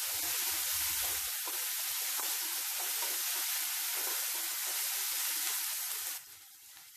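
Crushed shallots, garlic and curry leaves sizzling in hot coconut oil in a wok while a wooden spatula stirs them. The sizzle drops away sharply about six seconds in.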